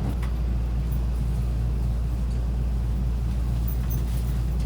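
Steady low rumble of a local JR train in motion, heard inside the passenger car.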